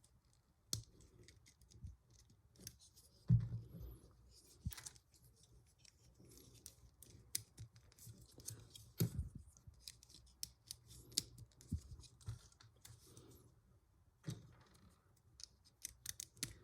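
LEGO plastic pieces being handled and pressed together: irregular small clicks, snaps and brief scrapes, the loudest about three and nine seconds in.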